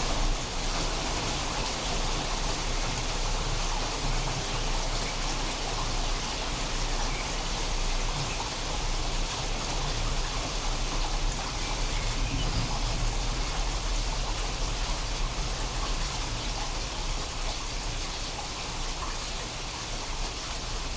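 Steady rain falling during a thunderstorm, an even hiss with a deep low rumble underneath.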